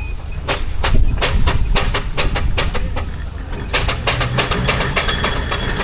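Steam engine working past, its exhaust beats and clanks coming about three to five a second over a low rumble, with a high squeal joining near the end.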